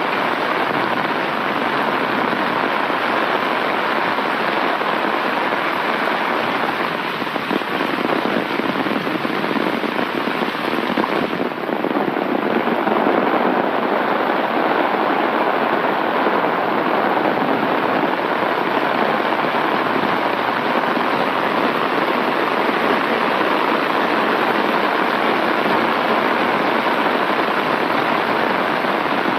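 Heavy rain pouring down in a steady, continuous hiss of falling water.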